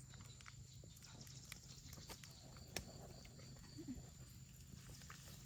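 Near silence: faint room tone with scattered small clicks, one sharper click about three seconds in, and a brief faint squeak a second later.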